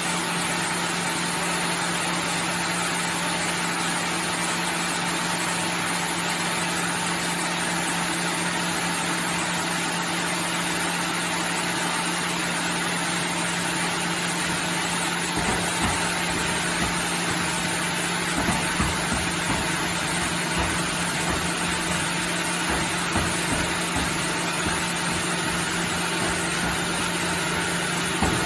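Sawmill machinery running with a steady hum and an even whir. From about halfway through come irregular low knocks and thuds.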